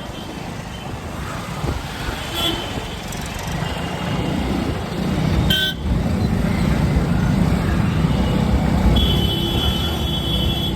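Road noise on a ride through traffic: a continuous low rumble of engine and wind that grows louder about four seconds in. Vehicle horns honk over it: a short toot near the start, a brief one in the middle, and a longer horn near the end.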